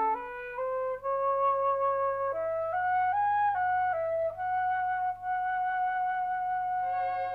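Music: a slow solo flute melody, single sustained notes stepping up and down, then one long held note lasting about three seconds near the end.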